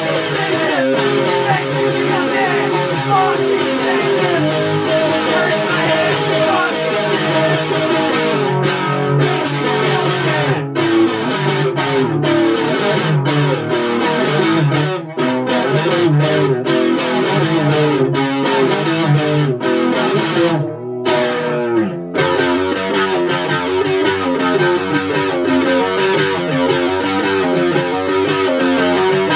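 Electric guitar played live, a run of chords and riffs with a brief break about 21 seconds in before the playing picks up again.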